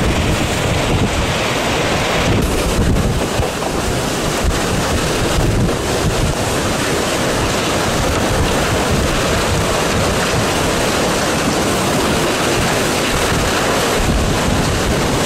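Hurricane-force wind blowing steadily and loudly, buffeting the microphone.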